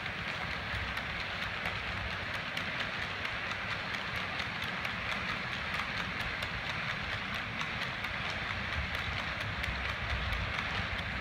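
Model train running steadily along the track: a continuous rolling rumble and hiss from the wheels and motor, with frequent light clicks, fairly evenly spaced, as the wheels cross the rail joints.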